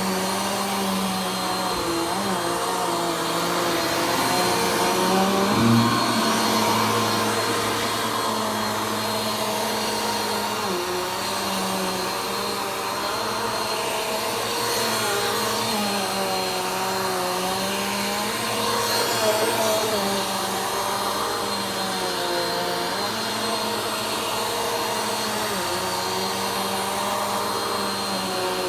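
Vacuum cleaner running steadily as it is pushed slowly over the floor, its motor pitch dipping and rising again every few seconds.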